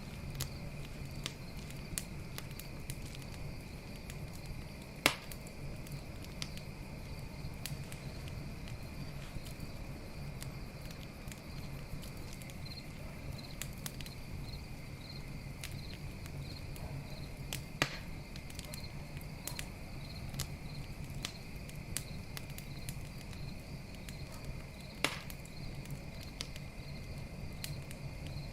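Campfire crackling with scattered small clicks and three louder pops, over a steady chorus of night crickets and a low steady hum.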